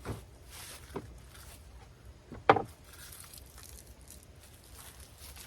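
Items being handled and set down while groceries are put away in a van's small refrigerator. A few light knocks and rustles, with one sharp, louder knock about two and a half seconds in.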